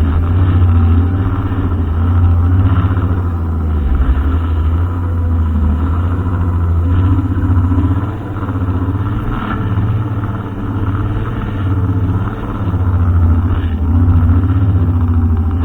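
Brushcutter engine running steadily, its pitch wavering slightly, with brief dips in loudness about eight, ten and twelve seconds in.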